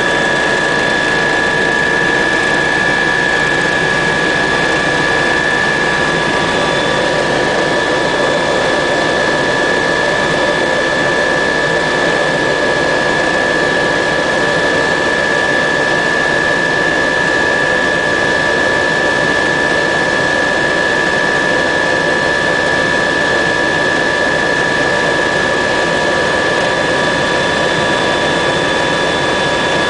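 Helicopter running close by: a steady, loud turbine whine with several high whistling tones over dense engine and rotor noise.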